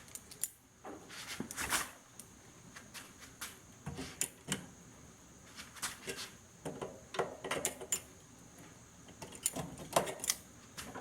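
Scattered, irregular metallic clicks and knocks as a screwdriver pries at a microwave magnetron's housing clamped in a vise, working a magnet loose.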